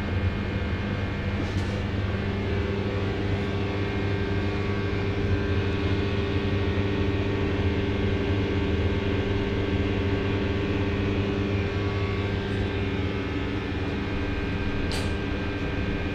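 Two Schulthess washing machines, a Spirit topLine 8120 and an eMotion 7040i, running together: a steady motor hum with several held tones over it, and a couple of faint brief hisses.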